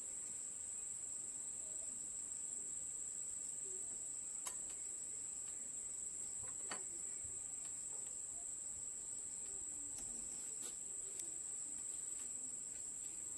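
Faint, steady high-pitched insect chirring, with a few faint clicks or taps now and then.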